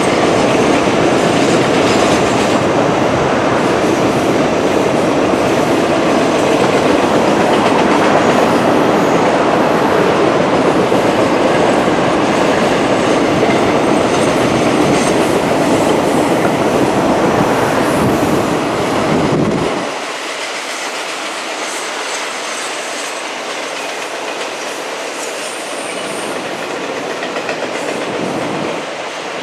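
Norfolk Southern Roadrailer freight train rolling past, its wheels clicking over the rail joints with a steady rumble. About twenty seconds in, the low rumble cuts off suddenly and a quieter, thinner noise remains.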